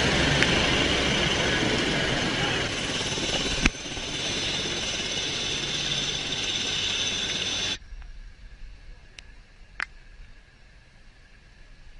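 Loud, steady engine and wind noise from a vehicle or aircraft, with one sharp crack about four seconds in. It cuts off abruptly near eight seconds, leaving a quiet background with a couple of faint clicks.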